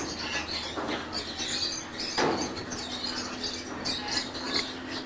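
Small birds chirping and squeaking in many short, high calls, with a few brief louder scuffs among them.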